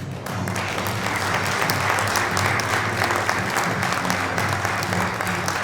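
Audience applauding over soft background music. The clapping starts just after the opening and keeps up steadily.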